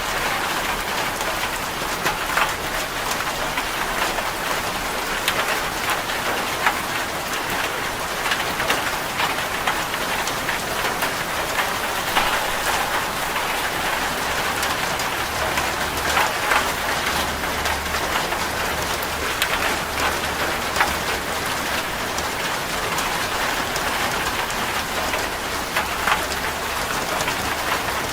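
Steady rain drumming on a corrugated zinc roof, a dense hiss of drops with individual drop ticks throughout.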